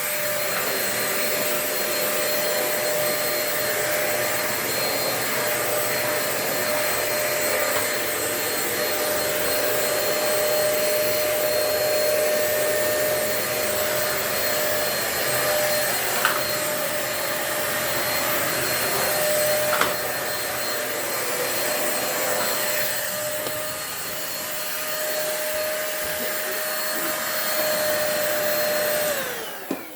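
Corded handheld vacuum cleaner running with a steady motor whine, with a couple of sharp knocks partway through. Near the end it is switched off and the motor winds down.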